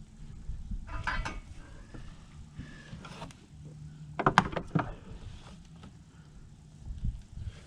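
Scattered knocks, clicks and rattles of hands working metal hose clamps and carburetors onto rubber intake boots, the loudest cluster about four seconds in, over a low handling rumble.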